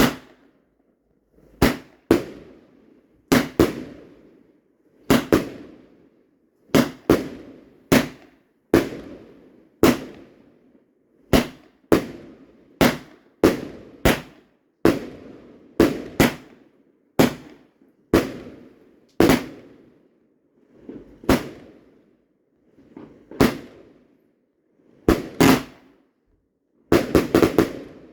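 Fireworks going off: a long run of sharp bangs, roughly one a second and often in quick pairs, each trailing off in a short rumbling echo.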